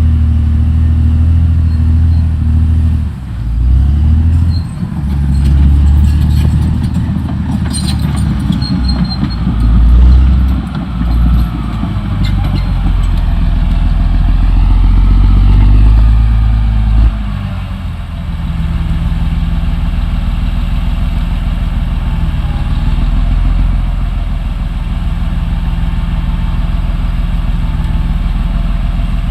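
Caterpillar D6R XL bulldozer's diesel engine working under changing load, its pitch and loudness dropping and recovering several times, with a few brief clanks about eight seconds in.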